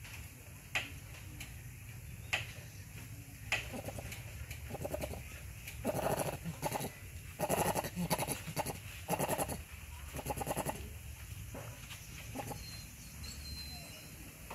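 Bird calls: a run of repeated low calls from about four to eleven seconds in, after a few sharp clicks, over a steady low rumble.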